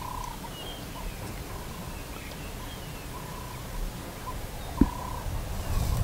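Wild birds calling in dry bush: a short, even-pitched note repeated again and again, with fainter higher chirps over it. A single thump comes about five seconds in.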